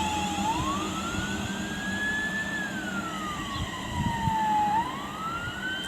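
Emergency vehicle siren in wail mode: a single tone slowly rising and falling, about one full rise and fall every four to five seconds.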